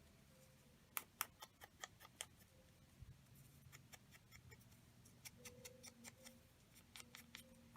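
Paper being torn by hand in small bits, a faint, irregular run of crackling ticks.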